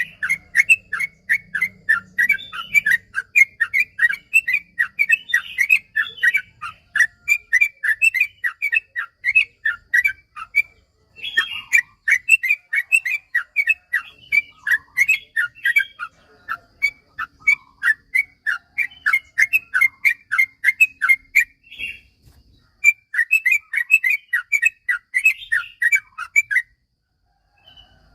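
Yellow-vented bulbul (trucukan) singing a long, fast run of short bubbly notes, several a second, in the rapid 'ropel' style. The song breaks off briefly twice and stops shortly before the end.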